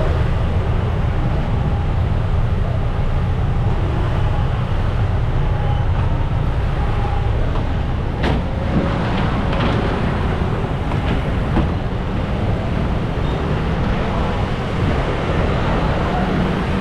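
Steady low rumble of motor scooter engines and the ferry's engine as vehicles ride off the ferry, with a sharp click about eight seconds in.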